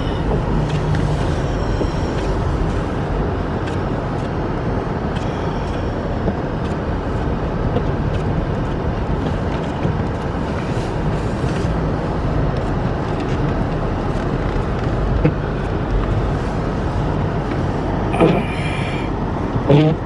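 Steady road and engine noise inside the cabin of an all-wheel-drive vehicle driving slowly on snow-covered roads, with a low hum and faint scattered clicks.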